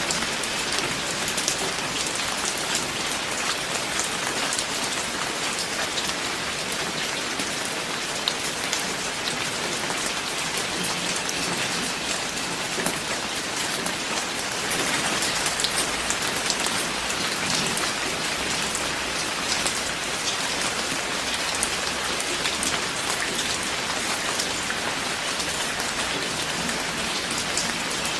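Steady rain falling and pattering on a surface, with many small drop impacts and no thunder.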